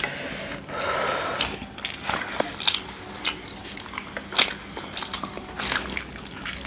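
Eating sounds: biting and chewing food, with irregular short crunches and clicks.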